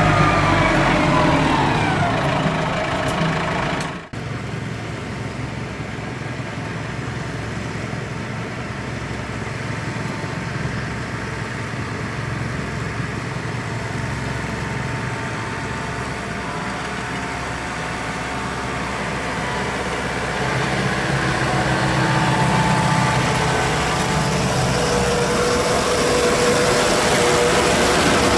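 Tractor engines running, with an abrupt change about four seconds in; the engine sound after it is steadier and grows louder towards the end.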